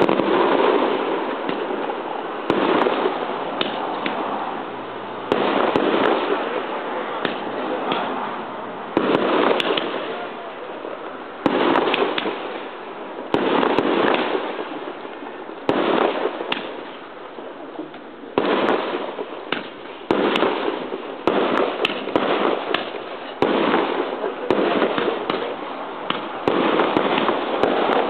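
Aerial fireworks shells bursting one after another, about one bang every two seconds. Each bang dies away slowly, and sharp crackles are scattered between them.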